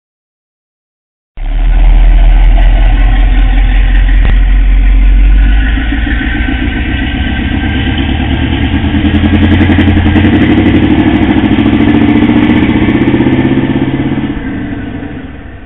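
1977 Corvette's 350 small-block V8 running loud through a new custom-built exhaust, cutting in abruptly after a second and a half of silence. It eases slightly about five seconds in, swells again, then drops off near the end.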